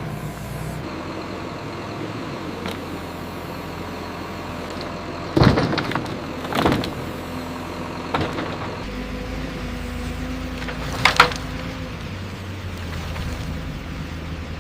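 Logging machine engine running steadily, with several sharp knocks over it: one about five and a half seconds in, two more a second or so apart after it, and the loudest, a quick double knock, about eleven seconds in.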